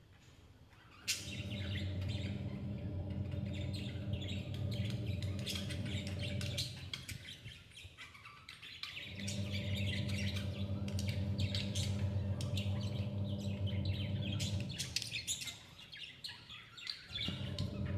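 Newborn budgerigar chicks chirping: a dense run of rapid, high squeaky calls in two long stretches with a quieter gap between them, and more starting near the end. A steady low hum sounds whenever the chirping does.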